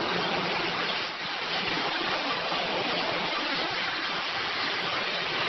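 Steady, even rush of flowing floodwater.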